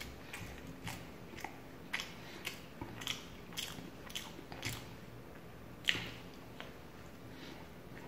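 A person chewing and biting chicken tandoori lollipop: irregular short mouth clicks and chewing noises, with one sharper click about six seconds in.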